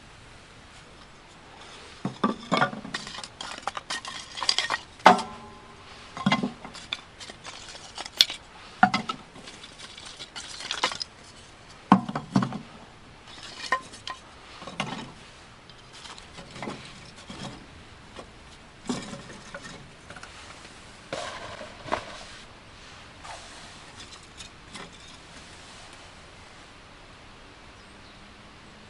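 Metal items being handled, clanking and clinking in irregular knocks, a few ringing briefly. The clatter fades out in the last few seconds.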